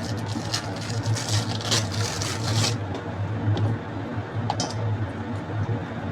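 A steady low hum throughout, with scattered clicks and rustles over it in the first three seconds and again briefly about four and a half seconds in.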